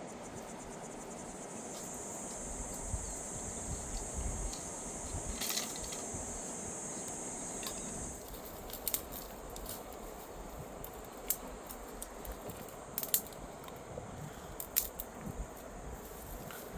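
Insect buzzing: a steady, high-pitched drone starts about a second and a half in and cuts off suddenly about halfway through. Sharp scattered clicks follow in the second half.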